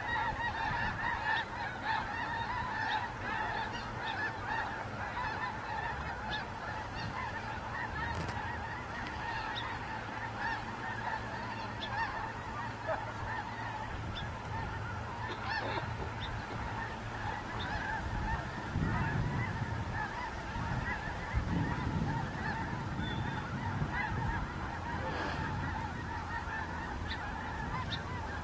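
A flock of geese honking continuously, many calls overlapping. A low rumble joins in about two-thirds of the way through.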